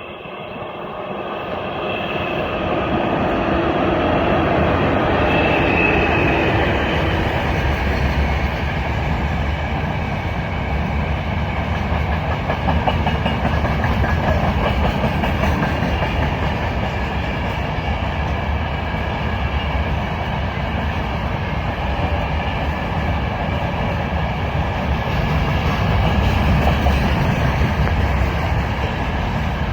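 A Russian freight train behind an Ermak electric locomotive approaches and rolls past. It grows louder over the first few seconds, then holds as a steady rumble and clatter of wagons on the rails, with a faint ringing tone above it.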